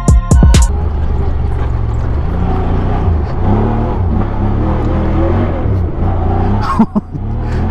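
Motorcycle engine running through its newly re-baffled exhaust, its pitch rising and falling as the throttle changes. There is a brief dip with a sharp click about a second before the end.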